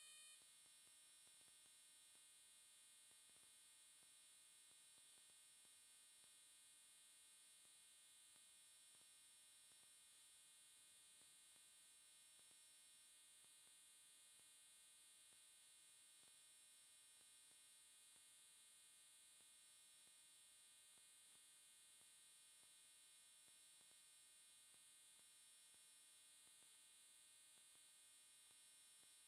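Near silence: a faint, steady electrical hum and whine with a high hiss, unchanging throughout.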